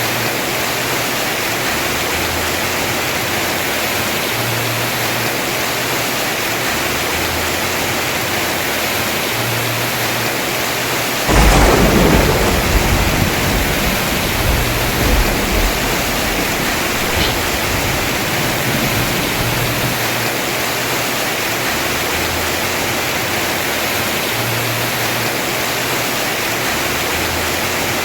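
Heavy rain falling on a house roof in a steady hiss. About eleven seconds in, a sudden thunderclap breaks out and rumbles for several seconds before fading back under the rain.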